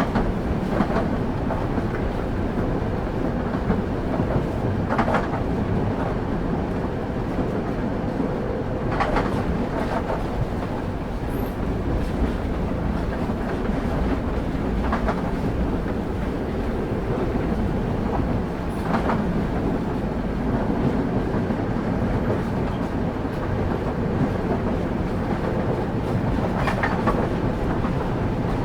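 Passenger train running at speed, heard from on board: a steady rumble of railway wheels on the rails, with an occasional sharp click as the wheels pass over rail joints, a few seconds apart.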